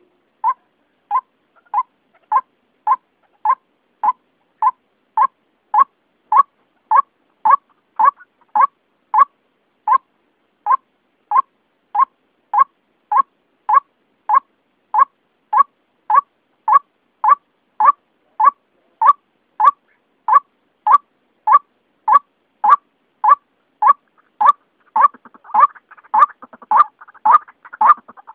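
White-breasted waterhen (ruak-ruak) call played as a hunting lure: one short note repeated evenly about twice a second. A second, faster chattering call joins near the end.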